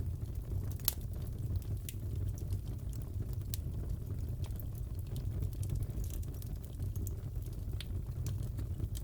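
Fireplace crackling: a steady low rumble of the burning fire with irregular sharp pops and crackles, one of the sharpest about a second in.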